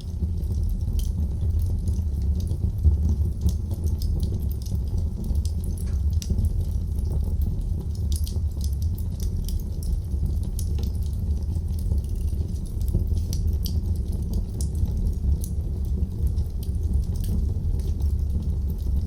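Wood fire in a fireplace crackling: constant small sharp pops and snaps over a steady low rumble from the burning logs.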